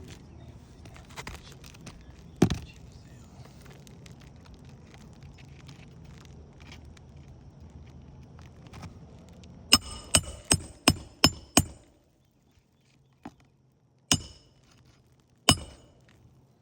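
Metal tool striking on an asphalt-shingle roof: one sharp knock about two seconds in, then a quick run of six ringing metallic strikes at about three a second, and two more single strikes near the end.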